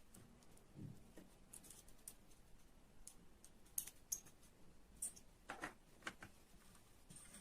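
Faint, scattered clicks and light taps of small hard objects, a handful of sharper ones in the second half.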